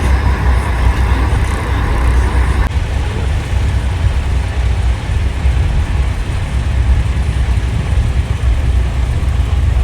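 Semi-trucks running in a slow convoy, a steady low rumble of heavy diesel engines and road noise.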